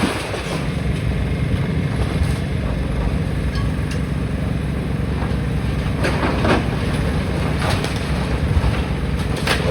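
Demolition machinery running with a steady low engine rumble, with a few sharp clattering knocks a few seconds apart as rubble is worked.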